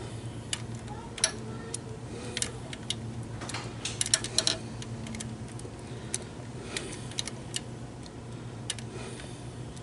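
Irregular sharp metallic clicks and ticks of hand tools working the engine's cylinder head bolts, bunched into a quick cluster about four seconds in, over a steady low hum.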